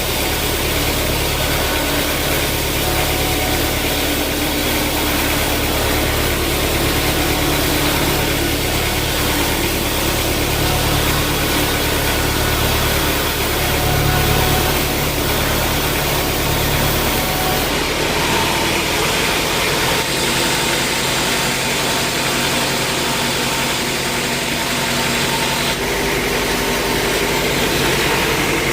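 Sawmill machinery running steadily, a continuous engine-like drone with a low hum. The low hum drops away about two-thirds of the way through while the machine keeps running.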